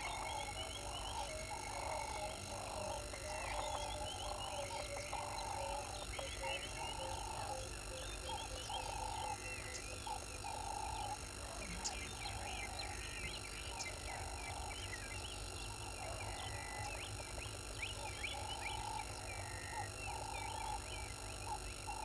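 Grey go-away bird giving short nasal calls, repeated about once a second, with smaller birds chirping higher up in the background.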